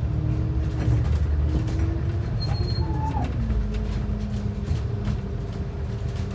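Ride noise inside a transit bus: the engine and drivetrain run under a steady road rumble, their hum drifting up and down in pitch with the bus's speed. There are light rattles throughout and a brief squeal about halfway.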